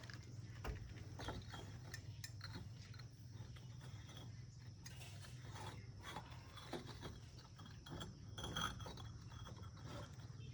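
Faint, scattered clicks and clinks of hand tools working on metal parts, over a steady low hum.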